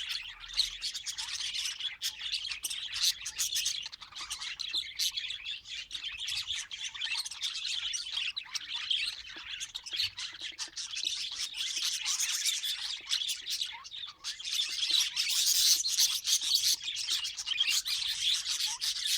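Pet budgerigars chattering and chirping in a continuous stream of quick, overlapping chirps and squawks, getting louder about three-quarters of the way through.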